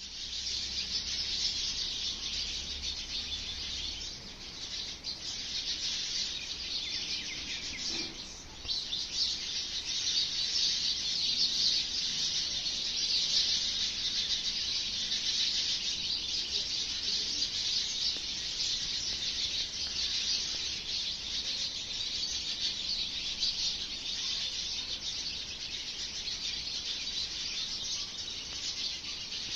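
A shrill, continuous chirring call with fast fine pulsing, holding steady throughout with a brief drop about eight seconds in; the uploader takes it for an unknown bird.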